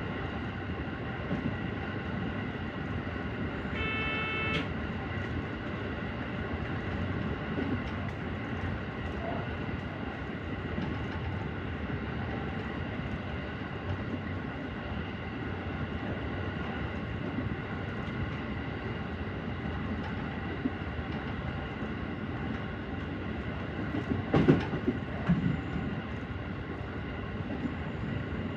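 JR Central 313 series electric train running along the line, a steady rumble of wheels on rail with a faint steady whine. A brief pitched tone sounds about four seconds in, and a couple of louder knocks come near the end.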